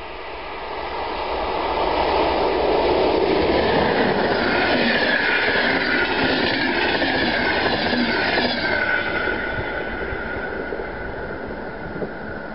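Passenger train passing at speed. A rising rush of wheels and air builds over the first couple of seconds and stays loud for several seconds as the coaches go by. A high whine then falls in pitch about two-thirds of the way through, and the sound fades as the train moves off.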